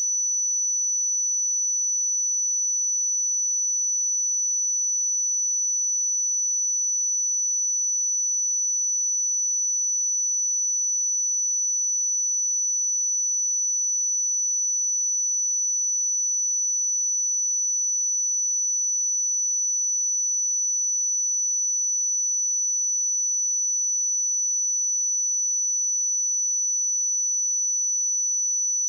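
A steady 5958 Hz sine-wave test tone: a single high-pitched pure tone held at a constant pitch and level.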